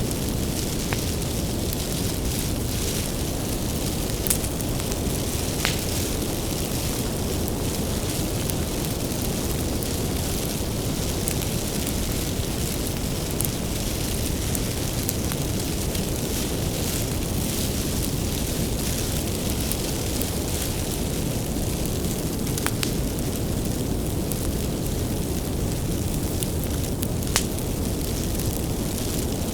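Bonfire of firewood burning with a steady low rumble, broken by a few sharp, sparse crackles and pops from the burning wood.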